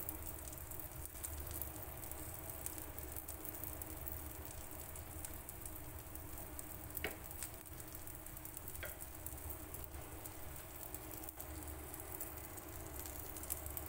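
Uthappam batter with chopped vegetables frying in oil in a nonstick pan, a steady light sizzle, while a wooden spatula presses it down. A couple of light clicks about halfway through.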